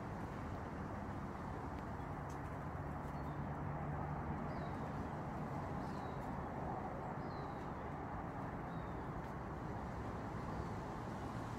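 Steady outdoor background hum, with about five short, high, falling bird chirps spaced a second or two apart.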